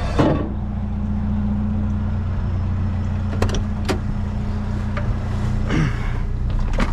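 Vehicle engine running steadily at idle, with a few short clicks or knocks partway through.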